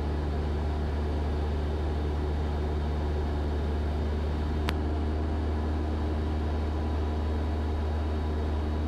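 Cessna 172 Skyhawk engine and propeller in steady cruise, an even drone inside the cabin. A single sharp click comes about halfway through.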